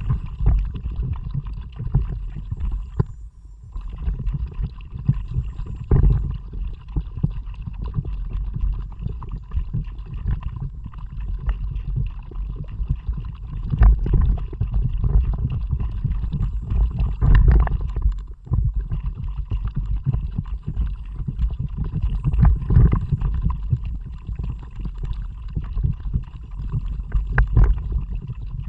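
Wind rumbling and buffeting on an action camera's microphone, with water noise from a kayak moving under paddle.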